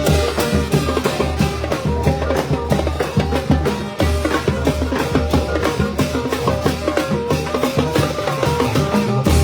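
Thai brass band (trae wong) playing a lively tune, with horns over a fast, steady beat of drums and cymbals.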